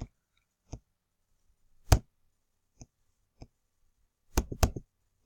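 Computer mouse clicking: about seven separate sharp clicks at uneven spacing, the loudest about two seconds in and a quick pair near the end.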